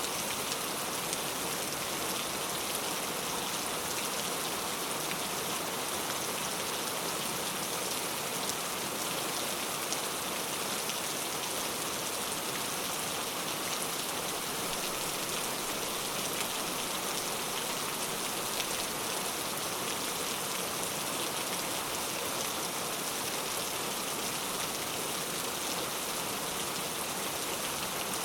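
Steady rain falling, an even hiss with a faint patter of individual drops.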